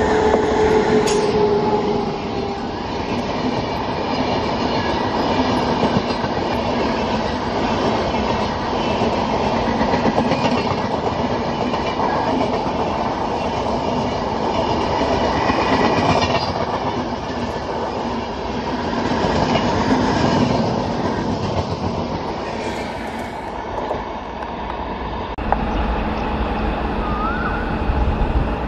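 A WAP-7 electric locomotive and its LHB coaches run past at speed without stopping: a continuous rushing clatter of wheels on the rails, with a held steady tone in the first couple of seconds. Near the end the sound changes to the lower, steadier rumble of a train running away.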